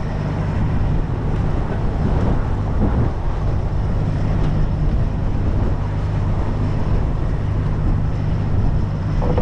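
Heavy truck's diesel engine running steadily, with strong gusty wind buffeting the microphone.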